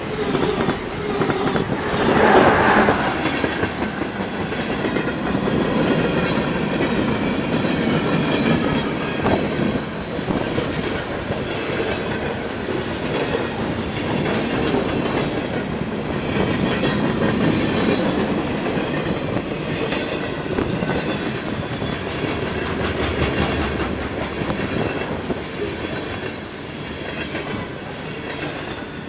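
A train rolling past close by, its wheels clicking steadily over the rail joints along with a continuous rumble, a little louder about two seconds in.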